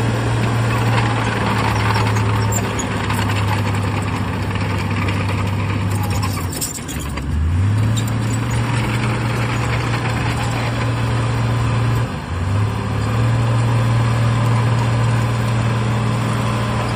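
Heavy diesel engine of earthmoving machinery running steadily under load, its low drone dropping in pitch and recovering about seven seconds in and dipping briefly again near twelve seconds.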